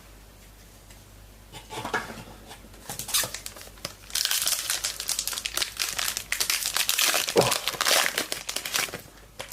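A trading card pack wrapper being torn open and crinkled: a few scattered crackles, then a long spell of dense crinkling from about four seconds in until near the end.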